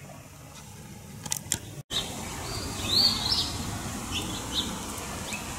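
Small songbird chirping in short high calls, a quick burst about three seconds in and a few single chirps after, over steady outdoor background noise.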